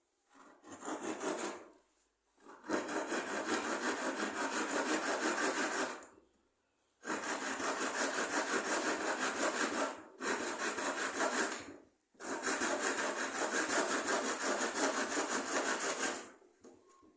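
Rapid back-and-forth rubbing strokes against wood, about four a second, in five bouts with short pauses between them.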